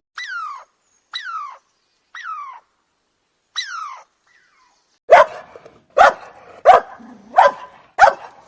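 A dog gives four short whines that fall in pitch, then barks loudly and repeatedly, about one bark every three-quarters of a second, from about halfway in.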